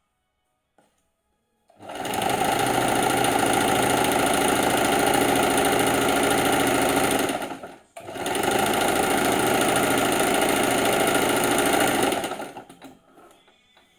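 Sewing machine running at speed in two long runs, about six seconds and then about four and a half seconds, with a brief stop between them. It makes the sound its owner calls strange.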